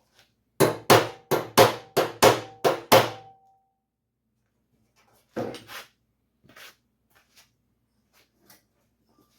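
Hammer striking steel seven times in quick succession, about three blows a second, with a brief metallic ring after the last. Two more knocks follow a couple of seconds later, then light clicks and taps.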